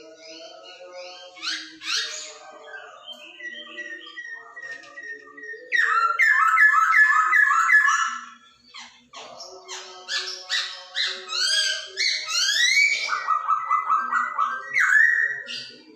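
Poksay Hongkong laughingthrush singing a long, varied song of rapid repeated notes and rising whistles, with short breaks. This is the lively full song that is played to pet birds to make them sing.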